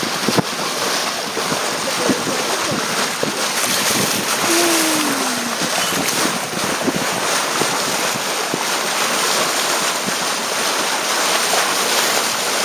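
Sea water rushing and splashing past a moving boat's hull, with wind buffeting the microphone: a steady, loud rush with small crackles. A short falling tone comes through about halfway.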